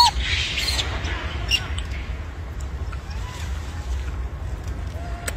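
Short high-pitched calls from a monkey, the loudest right at the start and a few brief ones later, over a steady low rumble.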